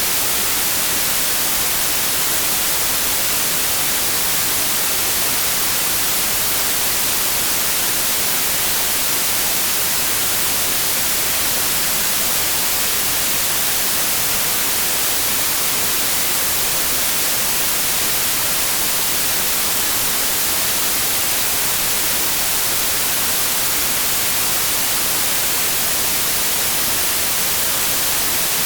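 Steady white noise: a constant, even hiss with most of its energy in the treble, unchanging throughout.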